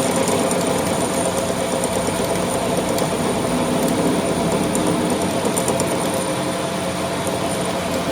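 A machine running steadily, with a high thin whine over a low hum and scattered light clicks.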